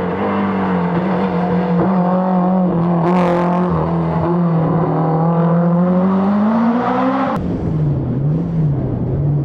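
BMW M3 E30 Group A rally car's four-cylinder engine held at high revs at a nearly steady pitch, with a short hissing burst about three seconds in. About seven seconds in the sound cuts abruptly to the engine at lower revs, its pitch rising and falling.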